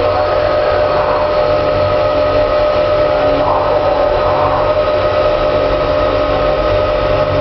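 Headman CK6130 CNC lathe running: a steady machine hum with a constant high whine.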